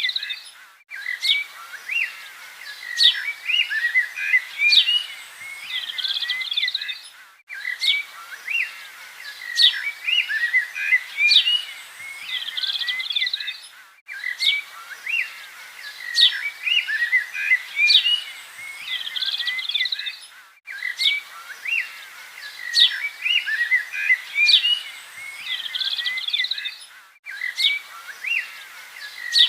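Several songbirds chirping and singing in quick, overlapping short calls. The same stretch of birdsong repeats about every six and a half seconds, with a brief drop-out at each join: a looped recording.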